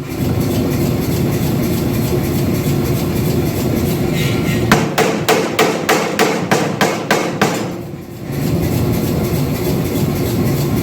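Air power hammer striking a steel bar in a quick run of about ten blows, roughly three a second, about halfway through, over a steady running noise from the machinery.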